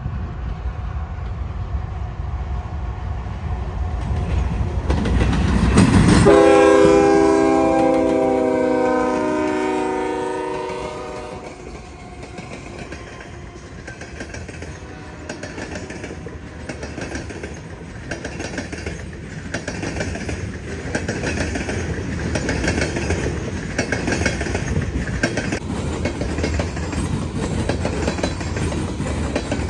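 CSX freight train passing close by. The diesel locomotives grow louder to a peak about six seconds in and sound a multi-chime air horn for about five seconds. Then covered hopper cars roll past with a rhythmic clickety-clack of wheels over the rail joints.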